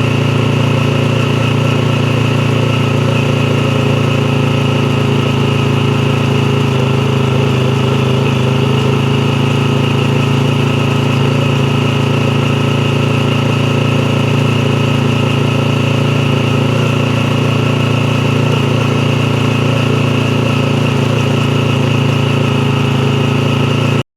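Yamaha YZF-R3's 321 cc parallel-twin engine idling steadily at a constant pitch, with no revving.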